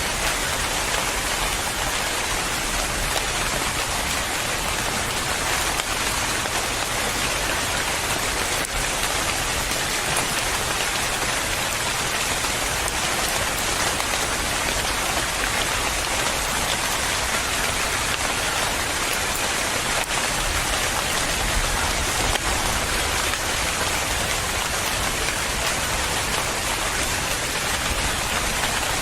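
Steady rain falling on a surface, with an even hiss of many drops and no break or change.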